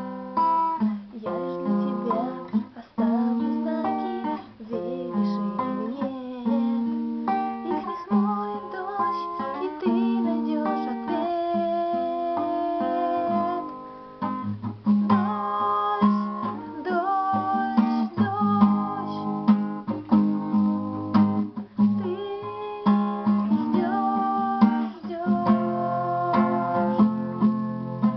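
Solo guitar playing a song, with a plucked melody over chords.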